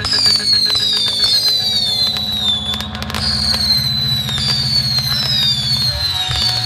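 Fireworks going off: a run of whistling fireworks, each whistle falling in pitch over about a second, one after another about once a second and overlapping, over a steady scatter of crackling pops.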